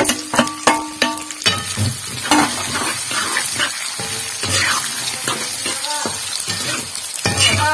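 Chopped onions and green chillies sizzling in hot oil in a kadai while a spatula stirs them. For the first second or so there is a rapid run of clicks as the spatula scrapes the onions in from a steel bowl.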